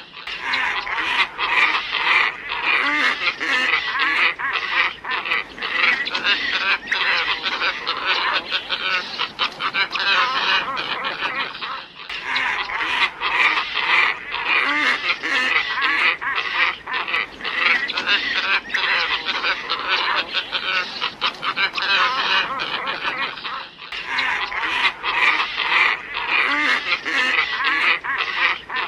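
A flock of glossy ibises calling nonstop: many harsh, overlapping calls. It is a lure recording that loops, restarting with a brief break about every 12 seconds.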